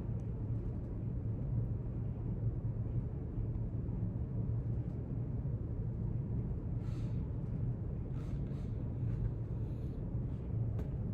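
Steady low hum of the room's background ambience. A few faint, brief rustles come about seven to nine seconds in and again near the end.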